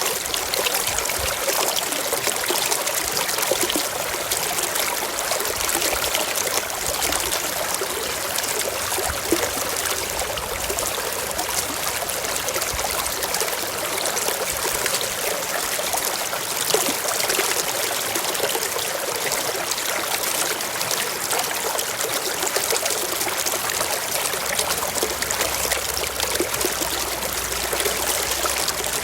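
Shallow stream running and trickling over rocks, a steady, even splashing rush.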